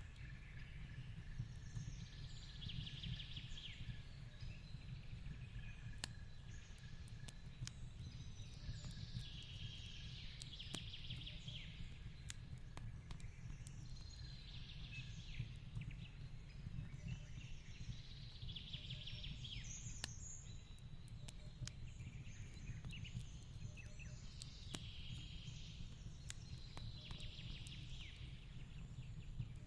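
Wood fire crackling with sharp pops scattered throughout over a steady low rumble. A bird trills faintly every few seconds.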